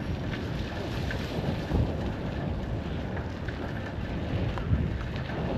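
Wind buffeting the microphone of a camera riding along on a bicycle, a steady low rumble with a few light clicks.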